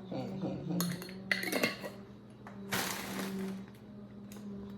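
Kitchen utensils clinking against dishes and a jar, a scatter of sharp clinks with a short rustling, shaking noise about three seconds in, over a steady low hum.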